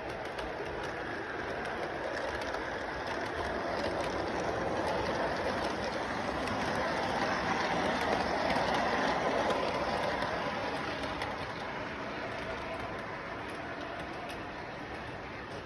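Model train running along its track with a rattling, clicking mechanical noise, growing louder as it comes past about halfway through and then fading as it moves away.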